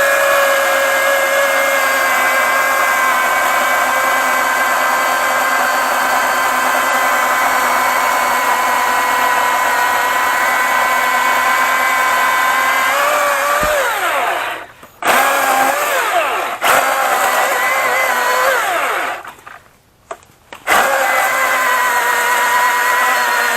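Milwaukee M18 FUEL battery chainsaw's brushless electric motor running at full speed with a steady high whine while cutting a thick tree trunk. Just past halfway the pitch sags as the chain loads up in the wood. The saw stops briefly twice and spins back up each time.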